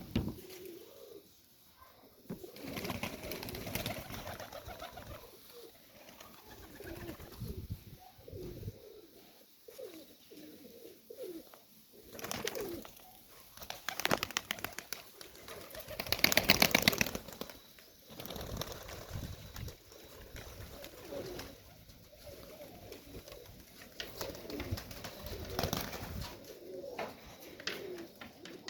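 Serbian Highflyer pigeons cooing again and again. A louder, noisy burst comes about halfway through.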